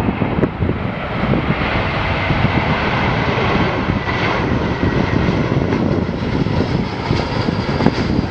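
Airbus A321-200 twin jet engines whining on landing approach, over a heavy rumble of wind buffeting the microphone. The engine whine is strongest around the middle.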